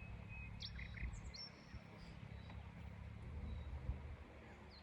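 Small songbirds chirping, a quick cluster of short high notes about half a second to a second and a half in, then fainter calls, over a steady low rumble. A single brief low thump comes near the end.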